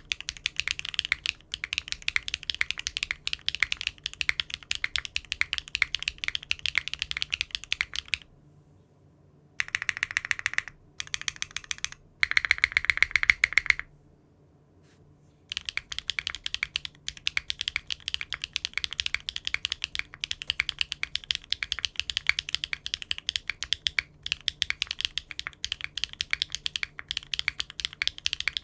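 Fast typing on a mechanical keyboard fitted with Cherry-profile keycaps: a dense run of key clacks, cut by two brief silent gaps near the middle.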